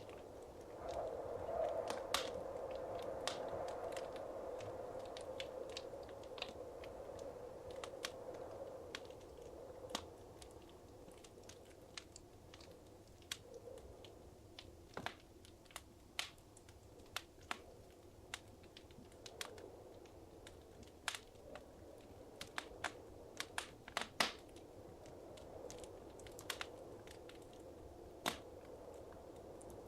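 Wood fire crackling in a fireplace: irregular sharp pops and snaps over a low hiss of flames, with a soft flutter that swells in the first few seconds and again near the end.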